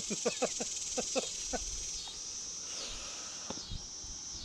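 A steady high-pitched insect chorus with slight periodic dips. Near the start it is joined by a quick run of short falling-pitch calls.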